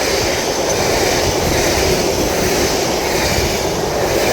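A train running past, a loud steady rushing noise of wheels on rail.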